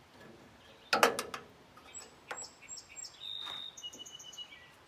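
A quick cluster of metal clicks and clanks about a second in, from parts being handled, then a songbird chirping a run of short, high whistled notes.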